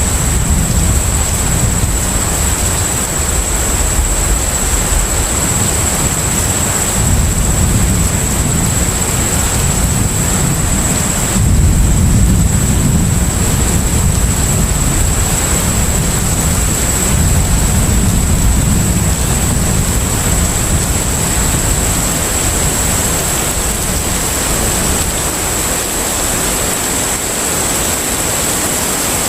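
Steady container-ship-at-sea ambience: a deep, unbroken rumble that swells and eases slowly, under a continuous hiss of rushing water. A thin, high, steady whine runs over it.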